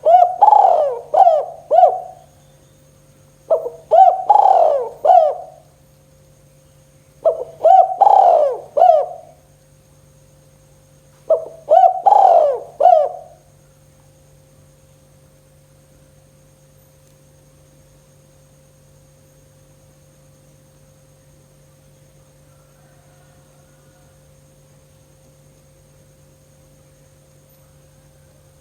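Spotted dove cooing: four phrases of several coos each, about four seconds apart, followed by a long pause with only a faint steady hum.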